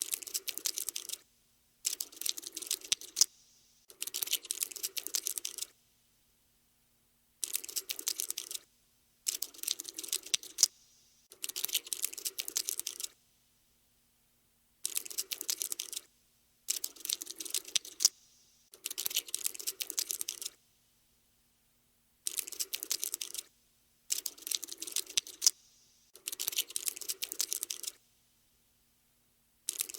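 Cockroach scuttling sound effect: bursts of rapid dry clicking and scratching, each lasting one to two seconds, about a dozen of them with short silent pauses between.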